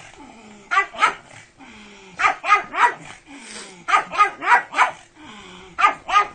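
Pug barking in quick runs of two to four short, sharp barks, with pauses of about a second between the runs.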